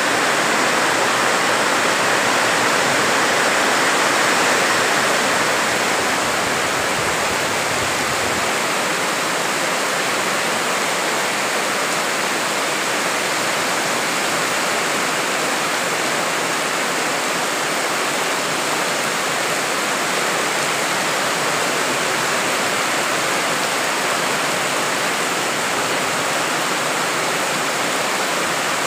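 Heavy rain pouring down in a steady, dense hiss, a little louder in the first few seconds, with a brief low rumble about seven seconds in.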